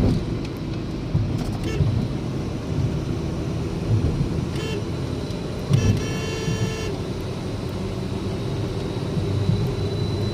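Ford Mondeo engine and road noise heard from inside the cabin while driving, a steady low rumble. A car horn sounds once, for just under a second, about six seconds in.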